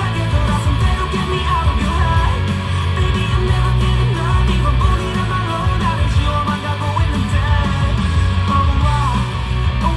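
A live band playing a guitar-led pop-rock song, with electric guitar over a heavy bass line.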